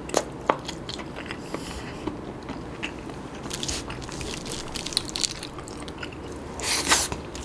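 Close-miked chewing of a mouthful of chewy squid and rice, with wet mouth clicks and smacks, and a louder crackling rustle about seven seconds in.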